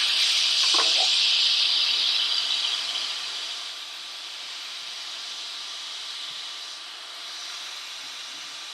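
Hot air rework station blowing with a steady hiss, loudest for the first three seconds and then settling lower.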